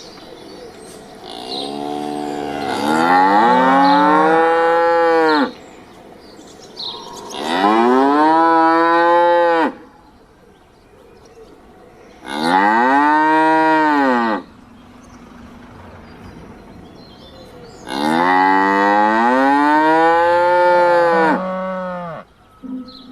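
A cow mooing four times in long, drawn-out calls, each rising and then falling in pitch.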